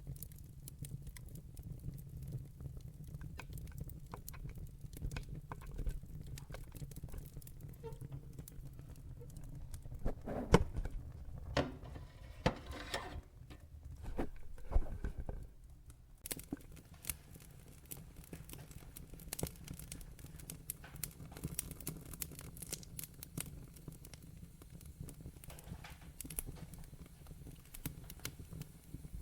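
Log fire crackling in a fireplace: irregular sharp pops and snaps over a steady low rumble, with a run of louder pops about ten to fifteen seconds in.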